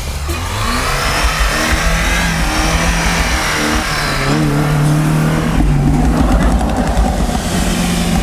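Lada Niva engine revving hard under full throttle, its pitch rising and falling as the summer tyres spin and scrabble for grip in snow on a slippery slope.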